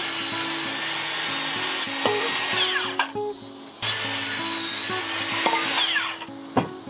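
An electric power tool working wood in two runs of a few seconds each, each ending as the motor winds down with a falling whine.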